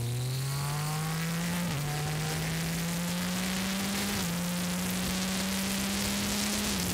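Yamaha Tracer 900 GT's three-cylinder engine accelerating through the gears. Its pitch climbs and falls back at three upshifts, about a second and a half in, about four seconds in and near the end, over steady wind rush on the microphone.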